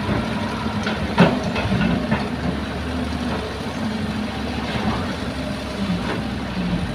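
Heavy diesel engine of earth-moving machinery running steadily at low revs. A few sharp knocks break in over it, the loudest about a second in.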